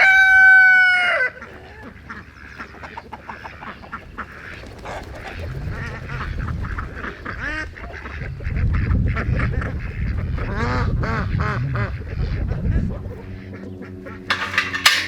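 A rooster's crow ends about a second in. A flock of domestic ducks and chickens keeps calling after it, with short quacks and clucks over a low rumble. A sharp clatter comes near the end.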